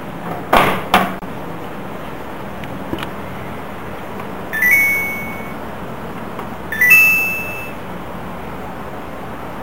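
Two sharp knocks, then two short electronic beep tunes from a Samsung EcoBubble washing machine's control panel, each a few quick notes stepping upward, as the machine's controls are set.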